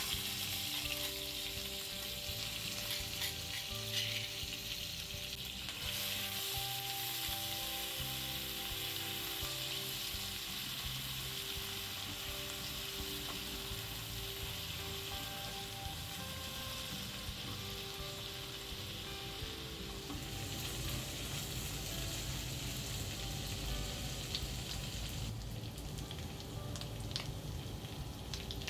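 Food frying in hot oil in a pan, a continuous sizzle that grows stronger about six seconds in and eases off near the end.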